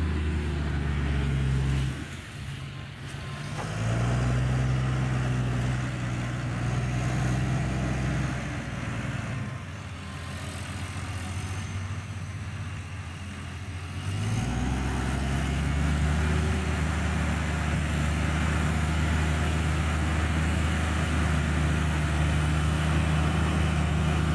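An engine running steadily. It slows about two seconds in, speeds up again around four seconds, eases off near the middle, and picks back up about fourteen seconds in.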